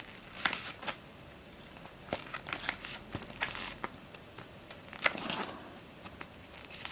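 Paper pages of an instruction booklet being turned and handled: a series of short rustles and soft crinkles, the strongest about five seconds in.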